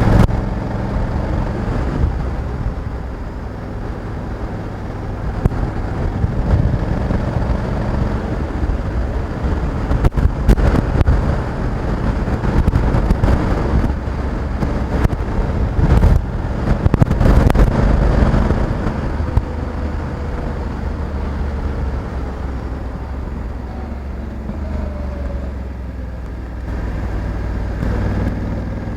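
Honda Africa Twin 1100 DCT's parallel-twin engine running while riding, mixed with wind noise on the microphone. It gets louder for a few seconds around the middle, with a few sharp knocks.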